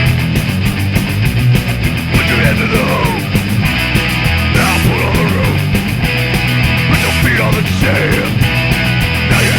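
Fast punk rock song: distorted electric guitar, bass and rapid drumming, with shouted vocals coming in about two seconds in.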